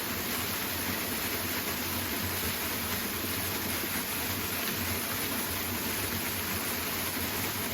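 Steady rushing of a powerful waterfall, an even roar of falling water with no change in level.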